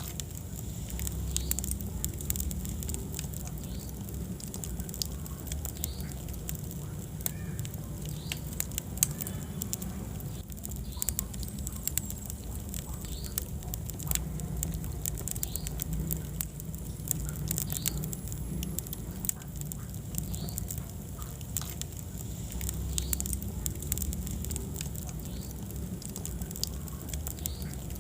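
Wood fire burning in a fireplace: a steady low rumble of flames with frequent small crackles and pops, the sharpest pop about nine seconds in, and faint short squeaks among them.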